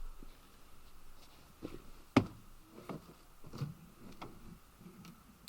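Scattered light knocks and taps, with one sharp knock about two seconds in.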